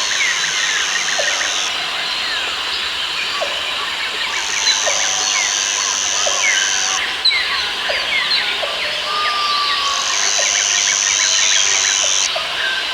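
Rainforest ambience: a dense chorus of many birds chirping and whistling, with an insect's high, steady buzz that sounds three times, each for about two and a half seconds.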